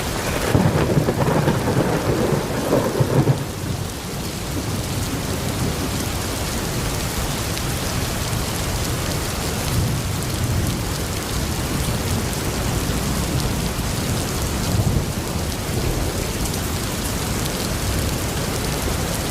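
Thunderstorm: a steady hiss of rain, with a rumble of thunder starting about half a second in and lasting about three seconds.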